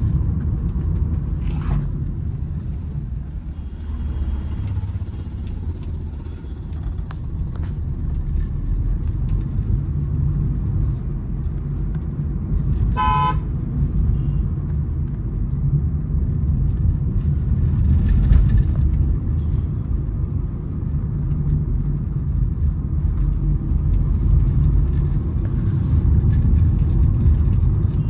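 Steady low road and engine rumble heard from inside a moving Honda City, with one short car horn toot a little past halfway through.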